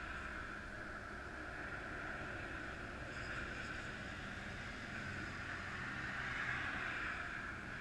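Steady noise of passing highway traffic, swelling to its loudest about six and a half seconds in.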